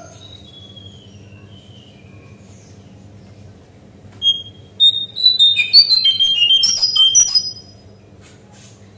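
Cingcoang coklat (lesser shortwing) singing: a few soft falling whistles, then about four seconds in a loud, rapid jumble of high whistled notes that leap up and down in pitch for about three seconds before stopping. A steady low hum runs underneath.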